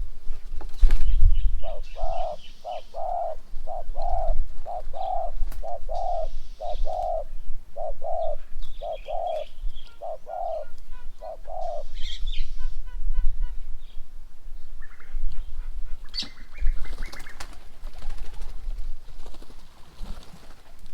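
A bird gives a long run of low, evenly pitched hooting notes, many in pairs, for about ten seconds before stopping. Smaller birds chirp and twitter over it, more busily near the end.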